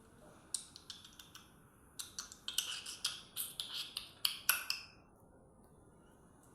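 Small birds giving a quick run of short, sharp chirps in two clusters, the second about two seconds in and denser, stopping about five seconds in.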